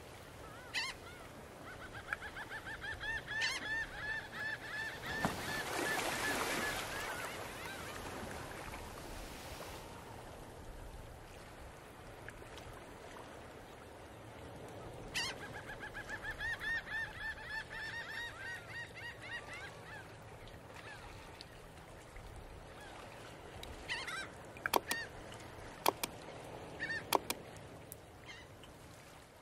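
Birds calling in two runs of rapid, repeated calls, one about a second in and another about fifteen seconds in. A rush of noise swells and fades between them, and a few sharp clicks come near the end.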